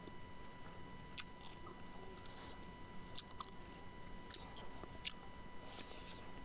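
Close-miked chewing and eating, with scattered wet smacking clicks of the mouth, the loudest about a second in and again near five and six seconds.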